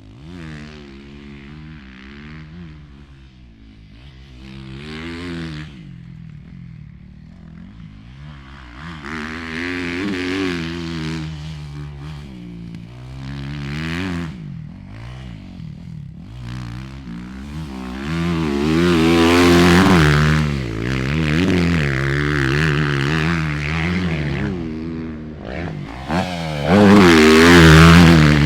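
Dirt bike engine revving up and down over and over as it is ridden around a motocross track, the pitch climbing and dropping with each throttle change. It grows louder over the second half and is loudest near the end as the bike comes close.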